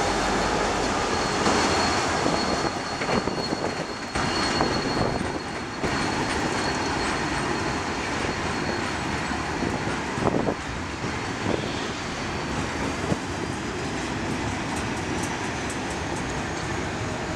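Freight train's steel wheels rolling past on the rails, with clicks and clatter over the joints. A steady high wheel squeal runs through it and fades out about two-thirds of the way through.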